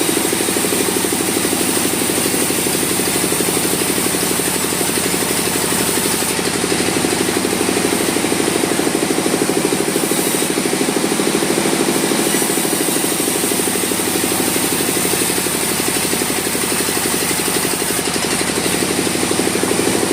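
Sawmill machinery running steadily, a loud, even engine-like drone with a fast regular pulse.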